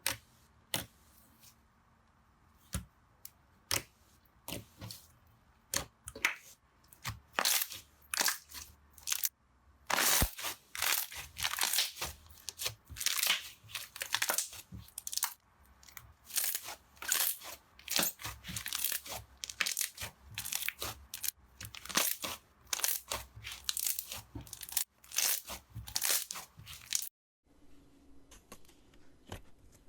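Slime being squeezed and pressed by hand, giving a run of sharp crackling pops and crunches. They are sparse at first, come thick and fast from about a third of the way in, and cut off abruptly near the end.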